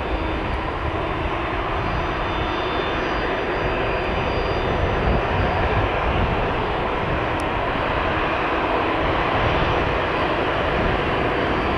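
Boeing 777-200ER jet engines running, a steady rush of noise with a faint high whine.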